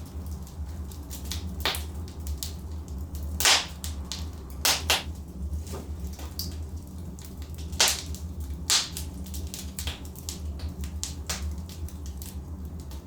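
Logs burning in a fireplace, crackling with many small irregular snaps and a few louder sharp pops, over a steady low rumble.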